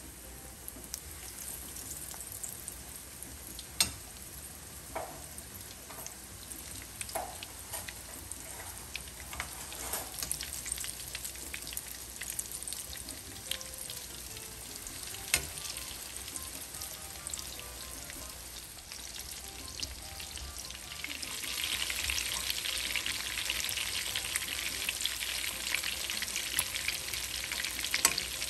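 Food sizzling as it fries in a pan, with a few sharp clicks along the way. The sizzle grows louder about three-quarters of the way through.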